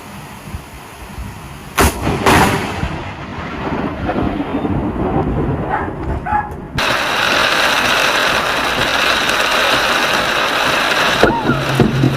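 A close lightning strike: a sharp thunderclap about two seconds in with a second crack right after, then a rumble of thunder. A steady loud hiss of rain or wind follows abruptly.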